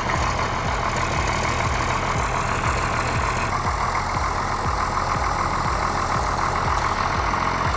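Heavy vehicle engine running steadily with a low hum.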